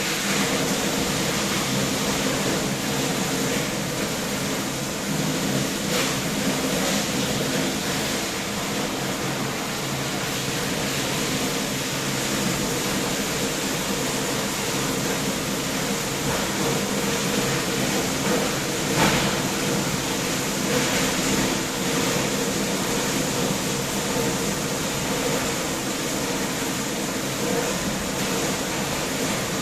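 Steady rushing noise like a running fan, with a low hum under it and a few faint clicks.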